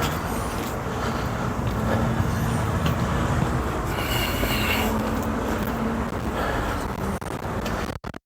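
Small pressure washer running and spraying water: a steady hiss of spray over a constant motor hum. Near the end the sound starts dropping out in short gaps.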